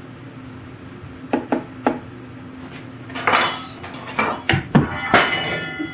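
Small metal parts dropped and clattering: a few light clicks, then a run of sharp metallic clinks and rattles with a ringing tail.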